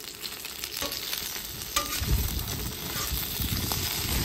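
Corn tortilla tacos shallow-frying in avocado oil on a flat-top griddle, sizzling steadily, with a few sharp clicks and scrapes of a metal spatula on the steel plate as the tacos are moved. A low rumble joins from about two seconds in.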